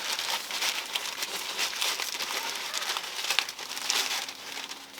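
Crinkling and rustling of a bag being handled, many small irregular crackles throughout.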